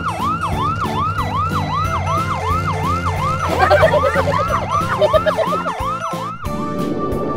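Ambulance siren sound effect: a rapid, repeating falling-and-rising wail about two and a half times a second, over children's background music. The siren cuts off about six and a half seconds in, leaving the music.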